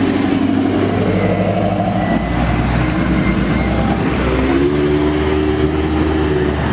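A car's engine and exhaust running loudly close by at low revs, a steady note that rises slightly in pitch about four and a half seconds in.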